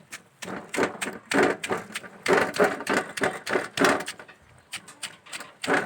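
Irregular crunching and cracking, dry material being crushed or snapped, several sharp cracks a second.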